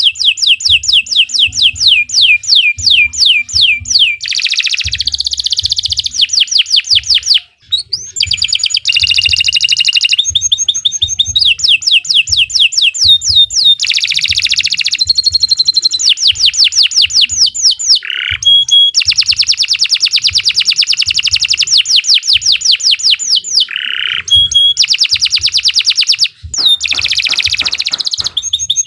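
Domestic canary singing continuously in long trills of rapidly repeated notes, one rolling phrase after another, with brief pauses about seven seconds in and near the end.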